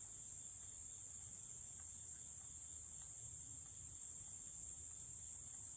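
Steady high-pitched chorus of insects, with a faint low rumble of wind underneath.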